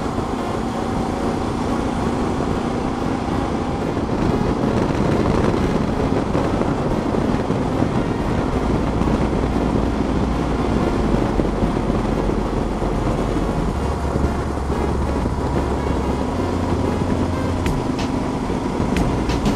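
Steady wind and engine noise of a motorcycle riding at road speed. Background music comes in under it about eight seconds in, its bass notes changing every couple of seconds, with a few sharp clicks near the end.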